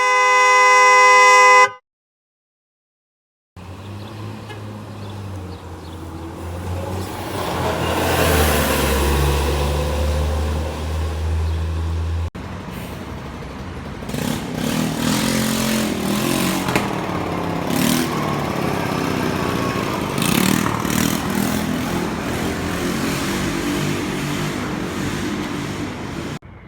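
A train horn sounds a loud multi-tone chord in the first two seconds, then stops abruptly. After a short silence comes a train's heavy rumble with a steady low hum, swelling loudest about eight to ten seconds in. After an abrupt cut, passing train noise with wavering whines and rattling continues.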